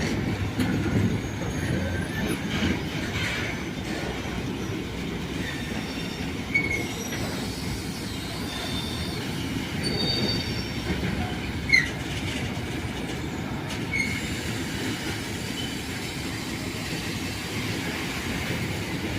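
Passenger train running on rails with a steady low rumble, its wheels giving several short, high-pitched squeals; the sharpest comes about twelve seconds in.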